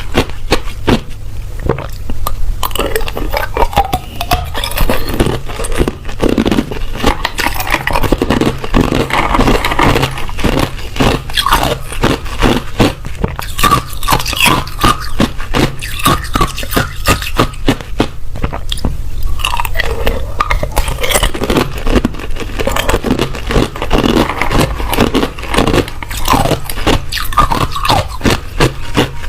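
Ice being bitten and chewed close to the microphone: loud, continuous, irregular crunching and cracking of hard ice between the teeth.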